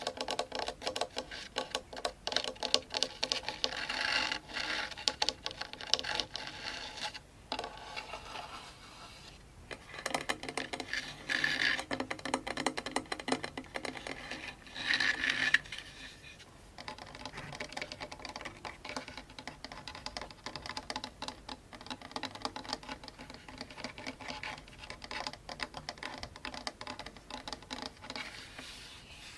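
Fingers rapidly tapping and scratching on a djembe, a dense stream of light taps with louder scratchy passages about 4, 11 and 15 seconds in, then softer, steadier tapping for the rest.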